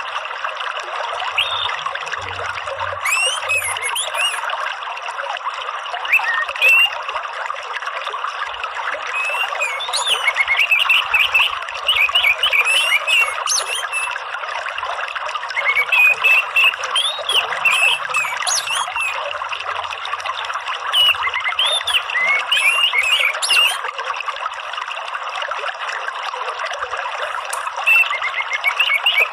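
Steady sound of running water, with a small songbird chirping and trilling in short bouts through it. This is a bird-therapy recording of the kind played to caged songbirds to stimulate singing.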